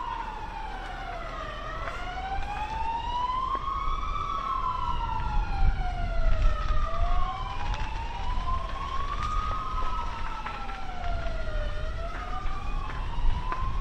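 A siren wailing, its pitch slowly rising and falling about once every five seconds, with a second wail overlapping it. A low rumble of wind on the microphone runs underneath.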